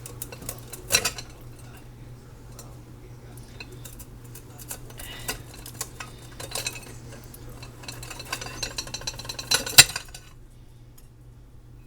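Scattered clinks, scrapes and clatter from working a grilled whole chicken off a chicken roaster stand, growing busier near the end with one loud clank.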